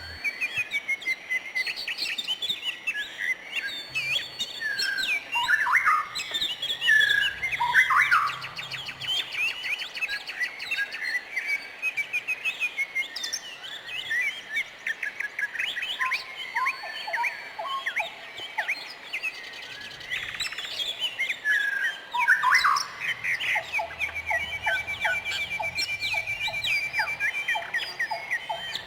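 Several birds singing and chirping at once, with quick overlapping chirps, whistles and trills throughout and a long rapid trill near the end.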